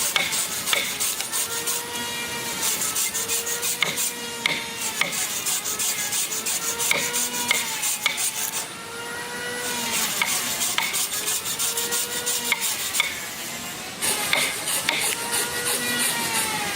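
A hand tool rasping on wood in repeated back-and-forth strokes, about one every second and a half, with a ringing pitch that rises and falls on each stroke. It pauses briefly twice.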